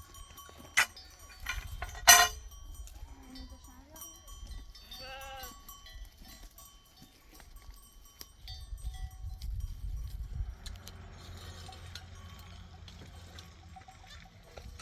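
Livestock bells clinking and ringing faintly, with a sheep or goat bleating once about five seconds in. A sharp knock just after two seconds in is the loudest sound.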